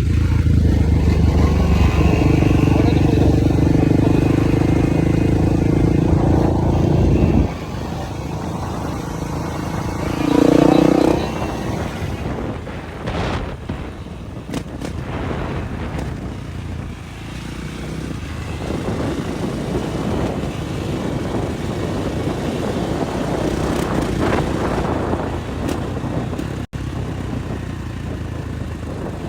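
Motorcycle engine running loud and steady, cutting off abruptly about seven seconds in. A brief louder pitched burst follows a few seconds later, then quieter, uneven engine sound with scattered clicks.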